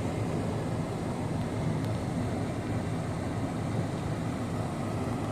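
A vehicle's engine running steadily: an even low rumble with a hiss, no changes in pitch or level.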